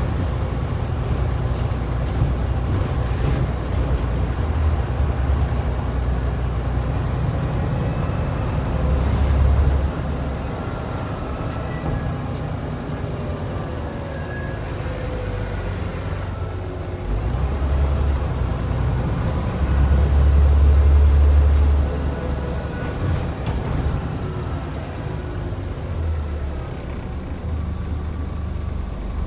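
Scania N94UD double-decker bus's 9-litre DC09 five-cylinder diesel running through city driving. It pulls hard and louder about nine seconds in and again, longest, about twenty seconds in. A short hiss of compressed air comes about fifteen seconds in.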